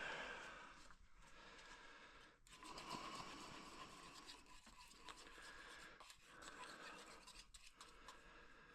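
Near silence with faint, irregular scratching and rubbing from hands working on pipe fittings, with a few soft clicks.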